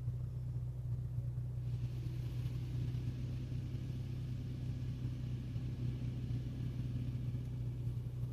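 Automatic car wash heard from inside a vehicle: a steady low hum, joined about two seconds in by a steady hiss of the wash equipment working on the car.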